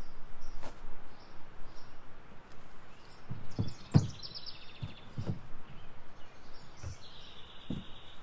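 Dull knocks and thumps of water bottles and gear being packed into a kayak's bow hatch, about half a dozen, the loudest about 4 s in. A bird chirps a quick run of notes around the same moment and again in a trill near the end.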